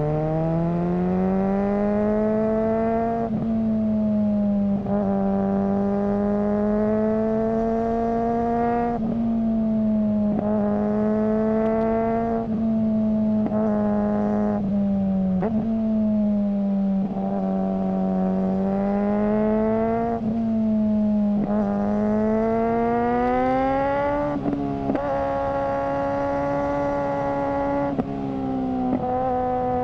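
Suzuki GSR600's inline-four engine through a GPR Ghost aftermarket exhaust, its note climbing steadily and then falling sharply about a dozen times, as when the bike is ridden up through the gears and eased off.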